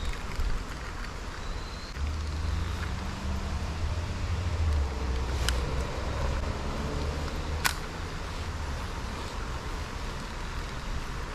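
Steady rush of a mountain stream, with a low rumble from about two seconds in and two sharp clicks about two seconds apart in the middle.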